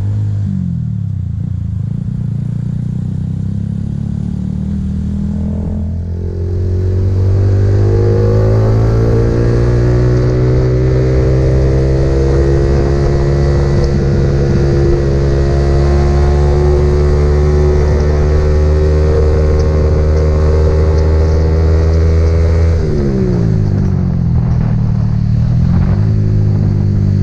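Motorcycle engine under way. It picks up revs about six seconds in and holds a steady pitch. Near the end the revs drop, then pick up again.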